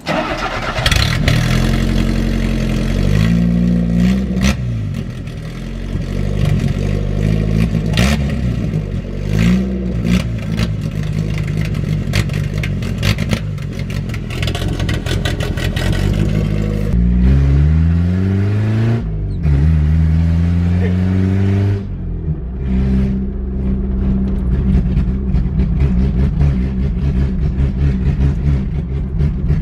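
Vehicle engine running with its exhaust cut off, so the sound comes straight out with no muffler. It is revved up and let fall back several times, with long revs in the middle, then settles into a steady idle for the last several seconds.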